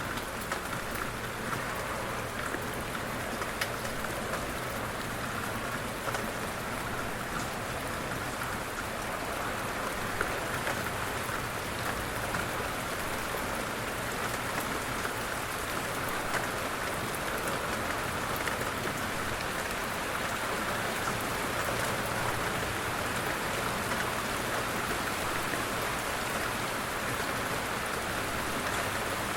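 Steady light rain falling, with scattered individual drops ticking on a surface.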